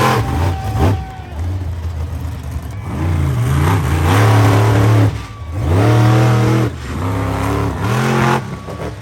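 Monster truck engine revving hard in repeated bursts, its pitch sweeping up and dropping back about four times.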